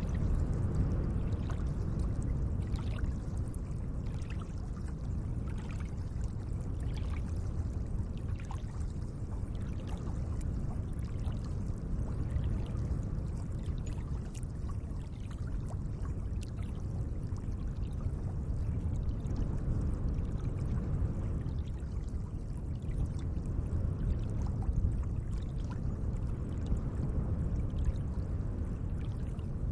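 Gentle lake water sounds: a steady low wash of moving water with many small splashes and drips scattered through it.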